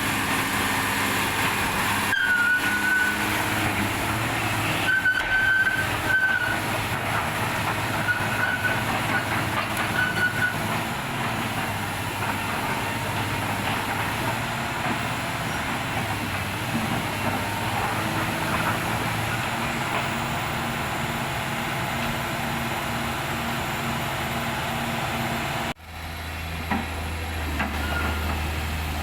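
Heavy diesel engine running steadily, with short high whistling tones in the first ten seconds or so. Near the end the sound breaks off for an instant and a deeper steady hum follows.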